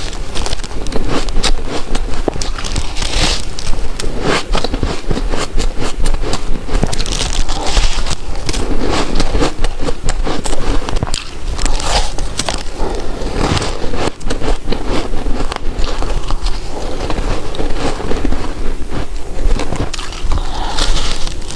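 Close-miked biting and chewing of soft, frosty white ice chunks: a continuous run of crunching and crackling.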